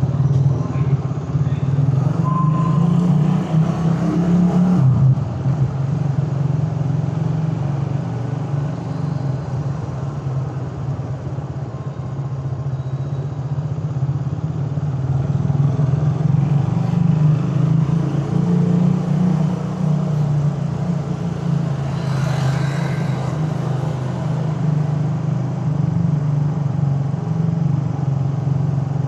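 Suzuki Raider 150 carburetted single-cylinder four-stroke engine running steadily while the motorcycle is ridden through traffic, its level rising and easing with the throttle. A brief, louder rushing sound comes about three-quarters of the way through.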